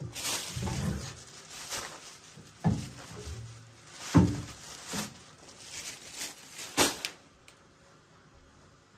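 A series of irregular knocks and thumps, about seven in the first seven seconds, like things being handled and set down; they stop about seven seconds in.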